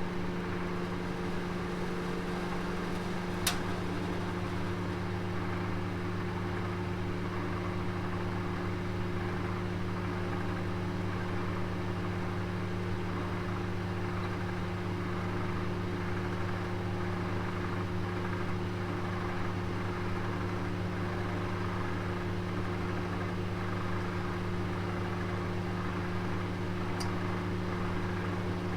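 Electric oven running with a roast inside: a steady, even hum with a faint hiss. One sharp click about three and a half seconds in, and a fainter tick near the end.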